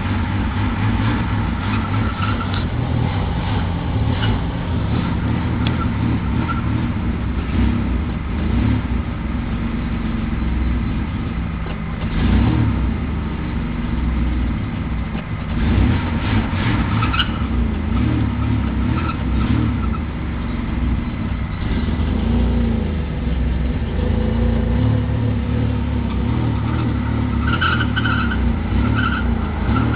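Subaru XT6's 2.7-litre flat-six running cold just after a cold start, with its level swelling a couple of times. Near the end a repeating swirling noise comes in over the engine, which the owner says is new.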